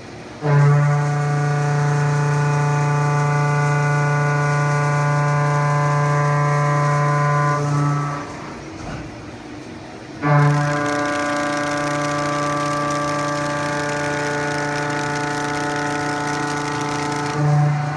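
Milling cutter in a Haas VF-2SS CNC mill cutting S355 steel, giving a loud, steady humming tone. It runs in two long passes of about seven and a half seconds each, with a short break between them about eight seconds in.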